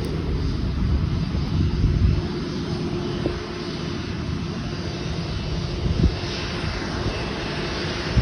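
Airbus A330-900neo's Rolls-Royce Trent 7000 turbofans running at low power as the airliner taxis in to the gate: a steady low rumble with a steady hum, and a short knock about six seconds in.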